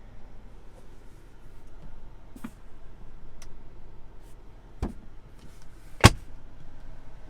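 A few light clicks, then two sharp knocks about a second apart, the second the loudest, as parts of a pickup truck are worked by hand.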